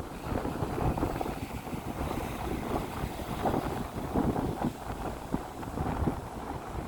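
Strong wind buffeting the microphone in gusts, over rough sea surf washing onto the beach.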